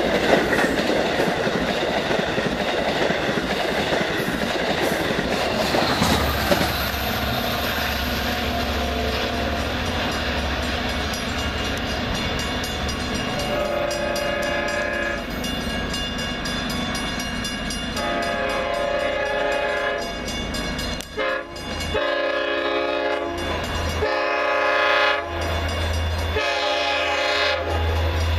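A train running past with rumbling wheel-on-rail noise, then its multi-tone air horn sounding several long blasts through the second half.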